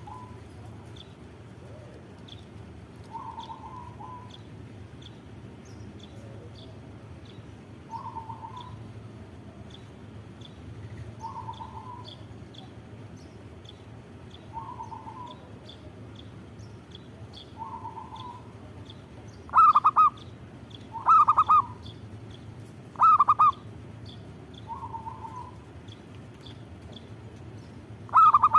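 Zebra doves (perkutut) cooing: short, soft phrases about every three seconds. From about two-thirds of the way through, several much louder coos break in.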